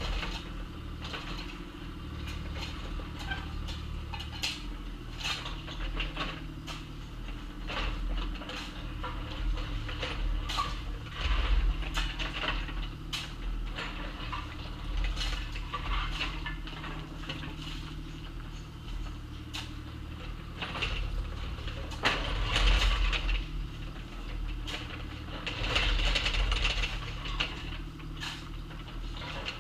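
Excavator engine running steadily under load while the steel bucket scrapes and clanks through gravel and dirt, with frequent sharp metallic clatters and a few louder knocks.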